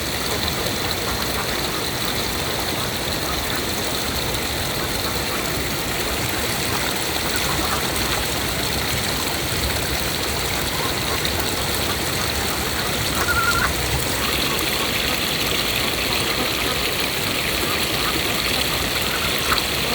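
A stream flowing steadily with an even rush of water, and one short high call about two-thirds of the way through.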